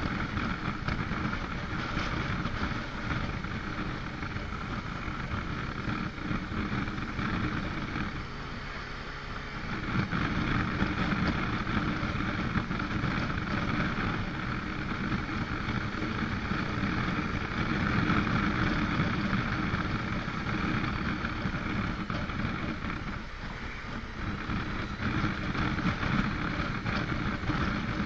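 Motorcycle engine running while riding, under heavy wind rush on the microphone. The sound eases off briefly about eight seconds in and again around twenty-three seconds in.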